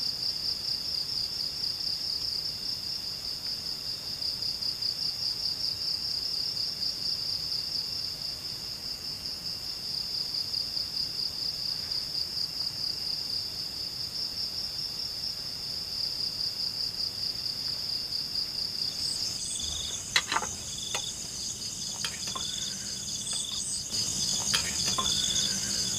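Night insects, cricket-like, trilling steadily in a fast pulsing high-pitched buzz. About nineteen seconds in, a second, higher insect call joins with its own evenly repeated chirps, and a few short knocks sound soon after.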